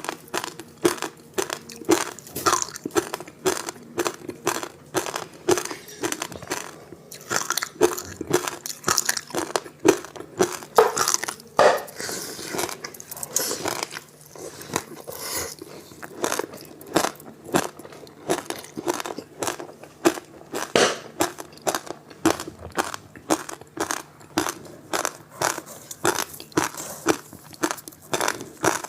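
Close-up crunching and chewing of frozen passion-fruit ice with sesame seeds: quick, sharp crunches, several a second, with no break.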